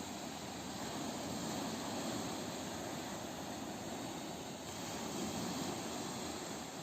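Ocean waves on a beach: a steady rush of surf that swells and eases gently.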